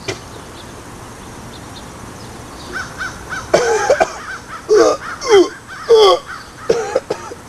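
A man retching and gagging, with about five loud, strained heaves from about halfway through, as he throws up after swallowing a Mentos with Coca-Cola.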